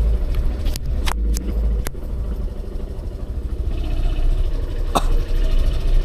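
Motorbike running, with heavy wind rumble on the microphone and a few sharp clicks around the first two seconds and again about five seconds in.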